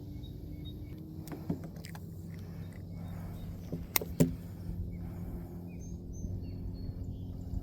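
A steady low engine hum, with two sharp clicks close together about four seconds in and faint short bird chirps in the second half.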